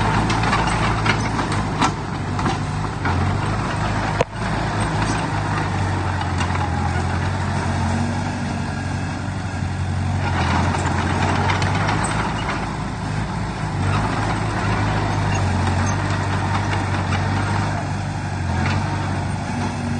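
Heavy diesel engine of earthmoving machinery running steadily, with a low even hum under a rough mechanical noise.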